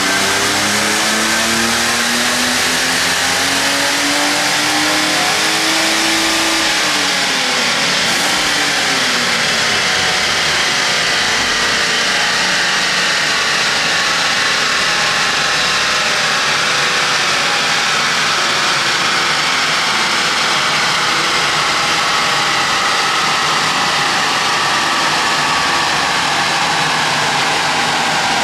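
BMW E30 engine running under load on a chassis dyno with the rollers turning. The engine note climbs over the first six seconds or so and drops back about six seconds in. It then rises slowly and steadily through most of the rest of the run.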